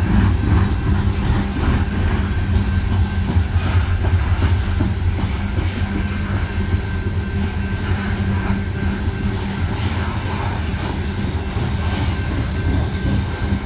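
Loaded steel coal hopper cars of a long freight train rolling past at close range: a steady, heavy rumble of wheels on rail with faint irregular clicks.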